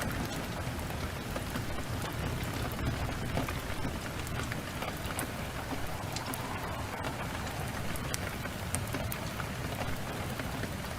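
Heavy rain pouring steadily, with a constant low rumble under it and many scattered sharp ticks and crackles.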